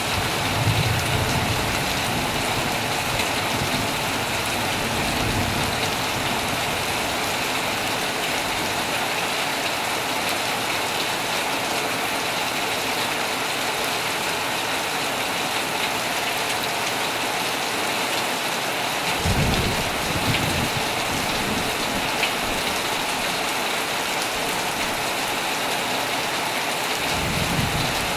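Heavy rain falling steadily on a tent, with low thunder rumbling about a second in, again around twenty seconds in, and near the end.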